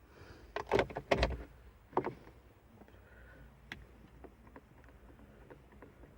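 A few loud clunks and rattles about a second in and again at two seconds, then scattered small clicks and taps.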